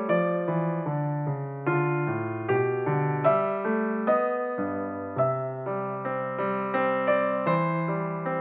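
Background piano music: a gentle melody of single struck notes, each fading, about two a second.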